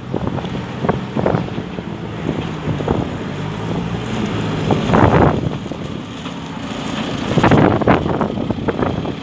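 JCB 3CX backhoe loader's diesel engine running steadily, with wind buffeting the microphone in gusts about halfway through and again near the end.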